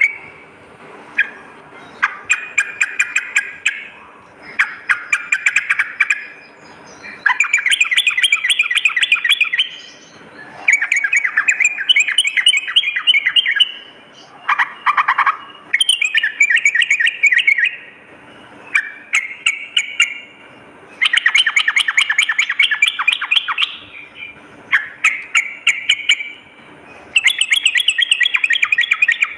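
Yellow-vented bulbul (trucukan) singing: bursts of fast, bubbling chattering phrases, each one to three seconds long, repeated again and again with short pauses between them.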